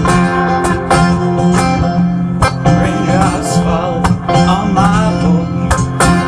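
Instrumental passage of an acoustic country-folk song: acoustic guitar playing over bass, with a steady drum beat.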